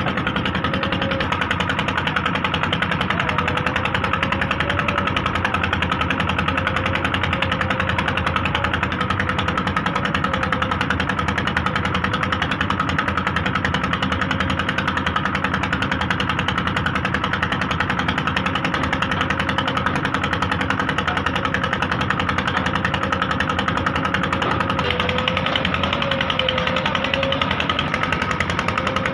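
JCB 3DX backhoe loader's diesel engine running steadily with a rapid, even clatter and a faint wavering whine above it; the note shifts slightly about 25 seconds in.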